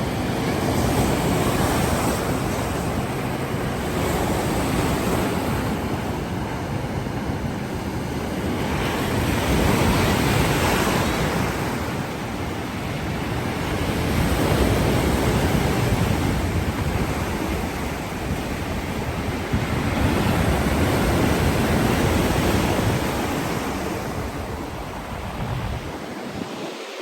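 Black Sea surf breaking on the shore in repeated swells every four to six seconds, with wind buffeting the microphone. The sound drops away near the end.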